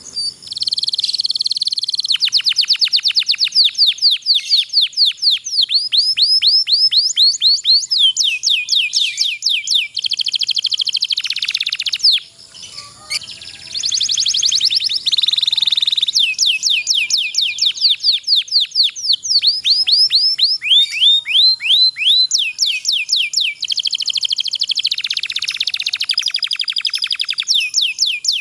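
Domestic canary singing long rolling trills: fast runs of rapidly repeated sweeping notes, one phrase after another, with a short break about twelve seconds in before the song picks up again.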